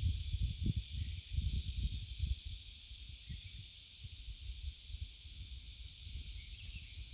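Outdoor ambience: a steady high hiss with irregular low rumbling gusts, which are strongest for the first two seconds or so and then die down.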